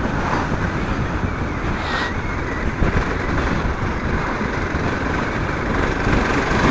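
Steady wind rush over a helmet-mounted camera's microphone while riding a Suzuki DR650, with the bike's single-cylinder engine running under it.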